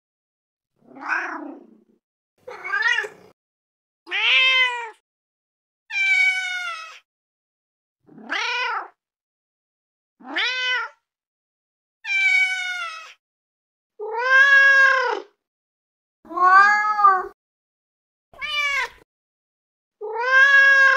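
A domestic cat meowing over and over, about ten separate meows roughly every two seconds. The pitch varies from call to call: some rise and fall, some are higher and thinner.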